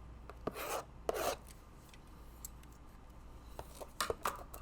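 Trading cards and their cardboard packaging being handled: two short papery scrapes about half a second apart, then light clicks and rustles near the end.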